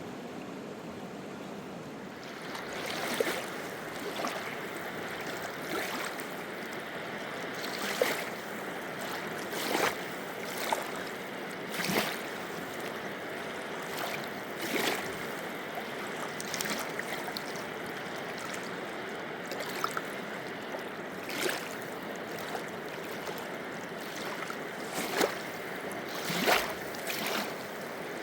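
River water running steadily, with short, irregular splashes every second or two, starting a few seconds in.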